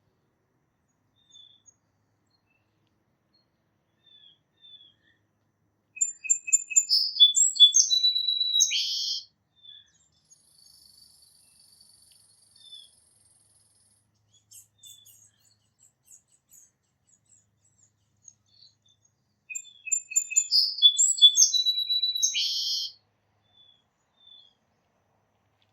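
A songbird singing the same short song twice, about 13 seconds apart: a few repeated notes, then a trill and a buzzy ending, each song about three seconds long. Faint chirps are scattered in between.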